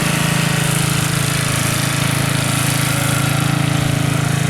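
Cub Cadet zero-turn riding mower's engine running loud and steady.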